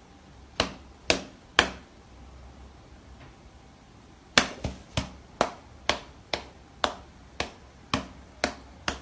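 A series of sharp taps or knocks: three about half a second apart near the start, then after a pause a steady run of about two a second.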